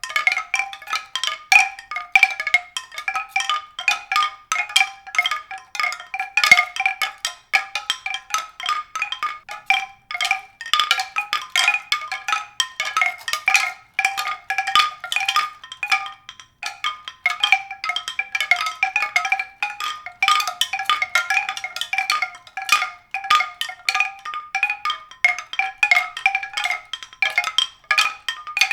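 Pitched percussion struck rapidly and without pause: a small set of bright notes recurs in a dense, uneven patter.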